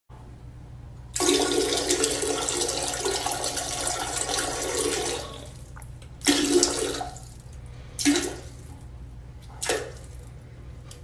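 Water gushing for about four seconds, then three or four short spurts of water, over a low steady hum.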